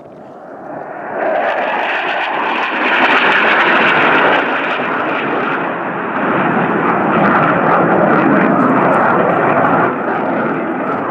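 Low-flying fighter jet passing through, its engine noise swelling about a second in and staying loud for the rest of the time.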